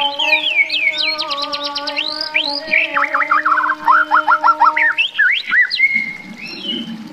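A songbird singing a fast, varied song of chirps, rapid trills and up-and-down whistles over steady held background tones like a musical drone. The singing thins out near the end.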